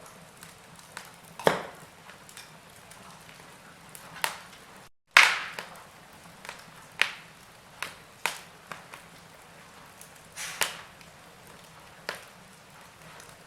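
Wood fire in a fireplace crackling: irregular sharp pops and snaps, a few every second or two, over a soft hiss. The sound cuts out for a split second about five seconds in, and the loudest pop comes right after.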